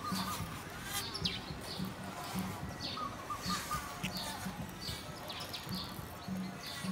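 Birds chirping: many short, high calls, each sweeping downward, repeated irregularly throughout.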